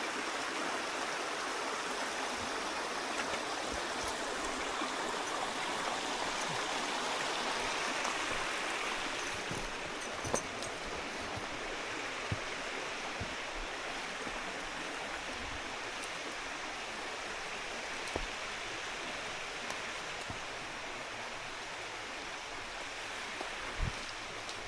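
Steady rushing of a forest stream, easing off a little over the second half, with a few brief faint knocks.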